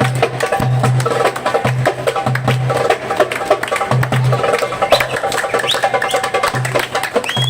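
Percussion music: a fast hand-drum rhythm solo of dense, rapid strokes over a repeating low bass note and a melody line.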